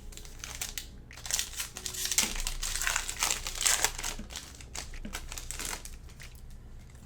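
Foil trading card pack wrapper crinkling as it is handled and torn open, busiest in the middle and fading near the end.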